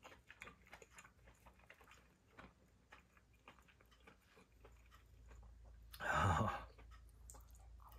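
Close-up mouth sounds of a person chewing cooked razor clam meat: soft, faint clicks and smacks, with one short voiced 'mm' of enjoyment about six seconds in.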